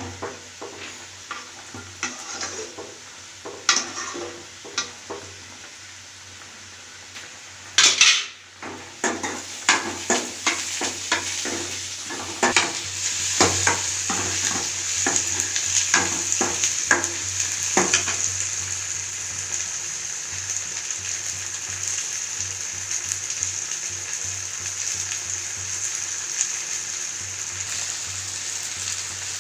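Food frying in a pan, stirred with a metal utensil: many clicks and knocks of the utensil against the pan, and a loud burst about eight seconds in. A steady sizzle then builds and keeps on while the clinking stops.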